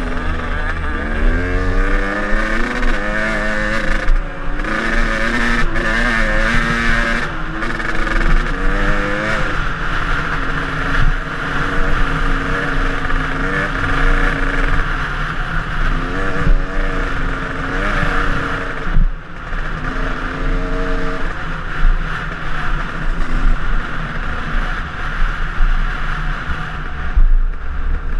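KTM enduro dirt bike engine under way, revving up and down: its pitch climbs and falls with throttle and gear changes, with brief drops off the throttle about four, seven and nineteen seconds in. A steady rush of wind noise runs under the engine.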